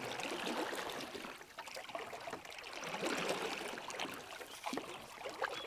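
Water trickling and splashing around a kayak: a steady run of small splashes and drips that swells and fades.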